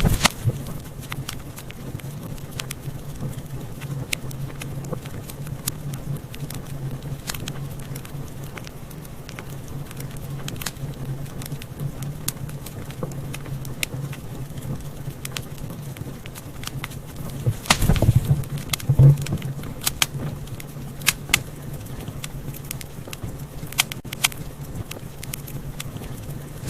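Wood fire burning in a fireplace: irregular crackles and sharp pops over a steady low rumble of flame. A louder burst of pops with low thuds comes about eighteen seconds in.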